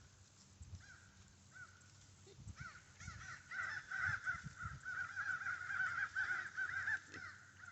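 A flock of birds calling: many short, quick calls overlapping, thickening about two and a half seconds in and carrying on until near the end, with a few faint low thuds underneath.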